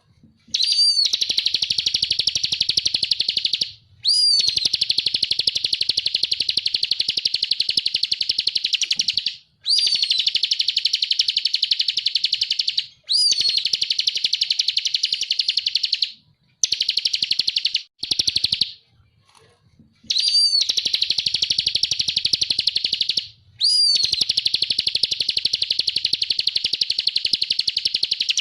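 Ciblek (prinia) singing in the 'ngebren' style: long, rapid, buzzing trills of about three seconds each, each opening with a short rising-then-falling note. The trills repeat with brief pauses, with one longer pause a little past the middle.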